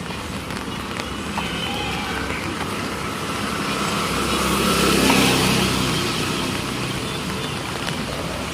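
Street traffic with a motor vehicle passing close by, its engine and tyre noise swelling to a peak about halfway through and then fading.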